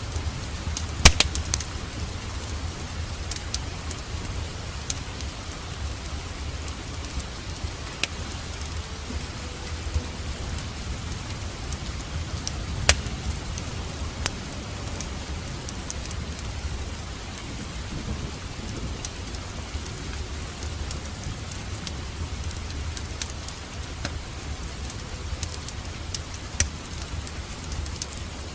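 Steady rain with a low rumble of thunder underneath, and scattered sharp crackles and pops from a wood fire in a fireplace, loudest in a cluster about a second in.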